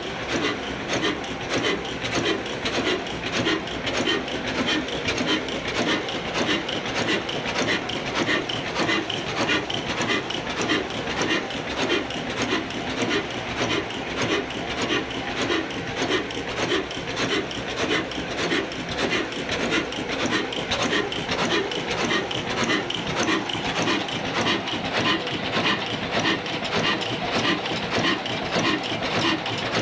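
Old Ruston Hornsby diesel engine running steadily with an even, repeating beat while driving an atta chakki flour mill.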